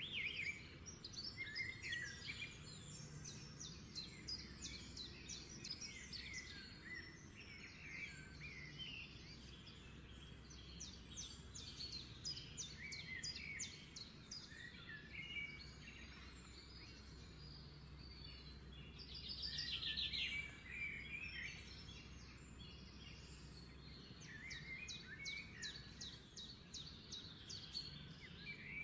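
Birds chirping and twittering in quick trills, over a faint low hum.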